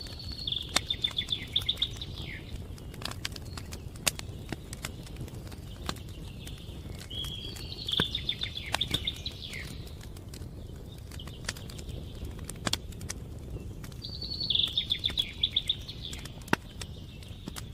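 A songbird sings a short, rapid trilled phrase three times, several seconds apart, over a steady low rumble with scattered sharp clicks.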